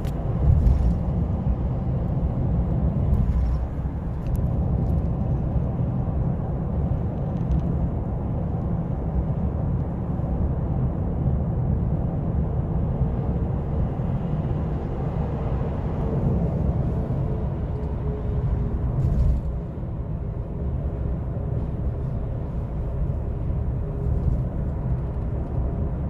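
GMC Sierra pickup's 6.2-litre V8 and tyres giving a steady low rumble while driving on the road, with a few brief knocks from bumps.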